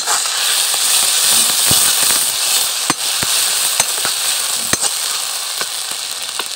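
Ginger, garlic, chilli and coriander paste sizzling in hot mustard oil in a metal kadhai as it is fried and stirred with a metal ladle, with scattered sharp clicks over a steady hiss. The sizzle eases a little toward the end.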